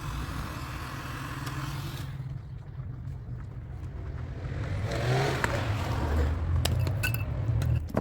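A steady low motor hum, with a few sharp taps or clicks near the end.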